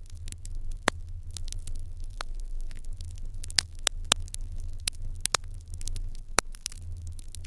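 Wood fire crackling in an open irori hearth: irregular sharp pops and snaps about once a second over a steady low hum.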